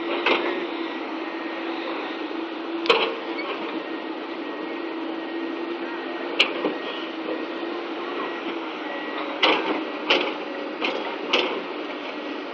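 Excavator engine running steadily, with a low held hum and about seven sharp knocks at irregular intervals.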